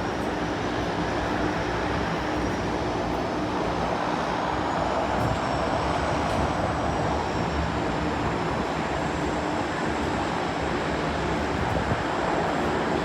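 Seaplane's engine and propeller giving a steady drone, with a faint high whine that rises slightly about five seconds in.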